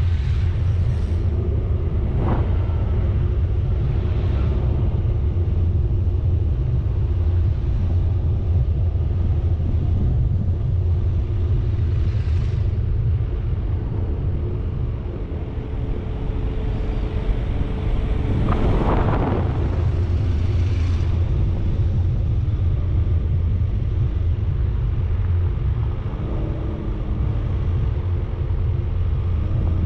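Steady low rumble of a vehicle driving along a road, engine and road noise, with a brief louder swell about nineteen seconds in.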